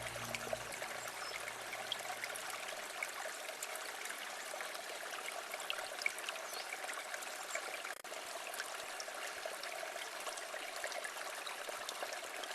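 A quiet river flowing: a steady babble of water with many small trickles and splashes.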